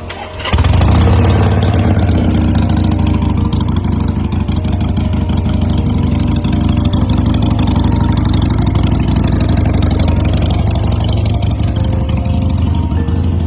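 Swaraj 735 tractor's three-cylinder diesel engine running steadily, coming in loud about half a second in.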